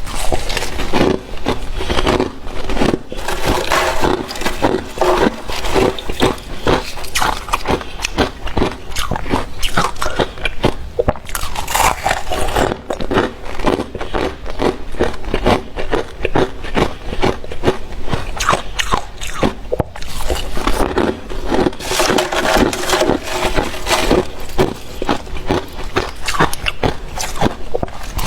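Close-up crunching and biting of powdery freezer frost, a dense run of crisp crackles and scrapes as the frost is chewed.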